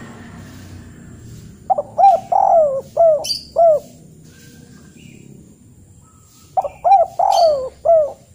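A bird calling in two phrases a few seconds apart, each a quick run of five or six short, arched notes.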